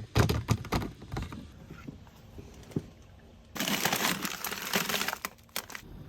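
Cooking clatter: a quick run of sharp knocks and clicks of utensils and cookware, then about a second and a half of steady hiss partway through, and a few more clicks near the end.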